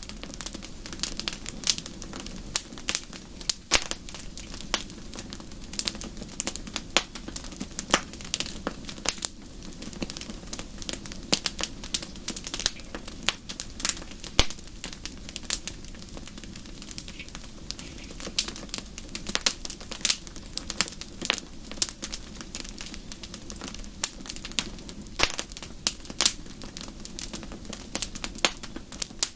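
Wood fire crackling in a fireplace: a steady stream of irregular sharp pops and snaps over a low, even rumble of the flames.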